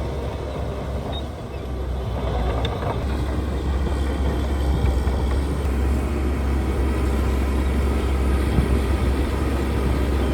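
Heavy diesel engine of earthmoving equipment running steadily with a deep drone, growing a little louder about two to four seconds in.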